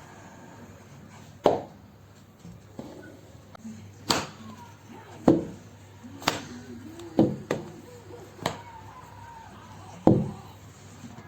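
A series of sharp knocks, about nine at uneven intervals, like a knife or an object striking a hard surface, over a low background.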